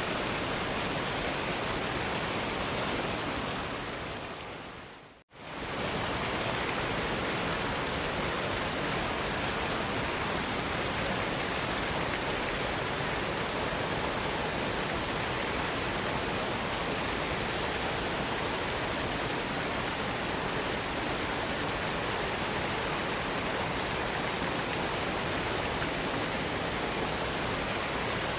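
Waterfall rushing in a steady, even roar of falling water. About five seconds in it fades briefly to silence and comes straight back, like a join in a looped recording.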